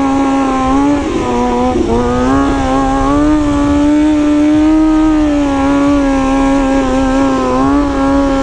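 Sport motorcycle engine held at high revs on the throttle, running steady with short dips in pitch about one and two seconds in and again near the end.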